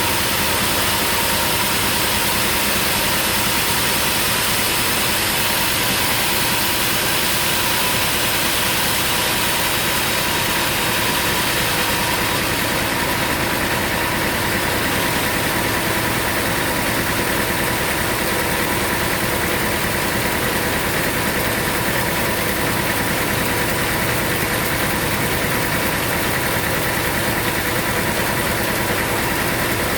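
Sawmill machinery running steadily: a constant engine-like drone with fixed tones and hiss, no break or change in speed.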